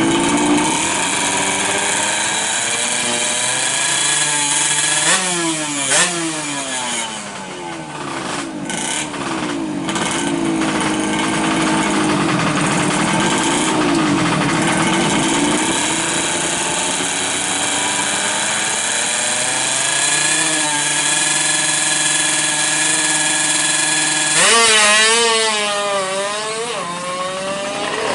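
A 120cc two-stroke Yamaha F1ZR engine running, with the throttle blipped in quick rises and falls of pitch about five seconds in and again near the end.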